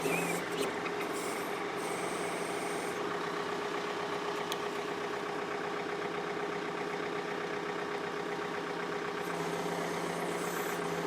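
John Deere 4052R compact tractor's three-cylinder diesel engine running steadily while it powers the 485A backhoe, with a steady hum over the engine noise.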